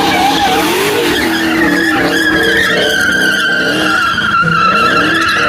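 Car tyres squealing: a steady, high screech sets in about two seconds in and holds, while a car engine revs up and down underneath.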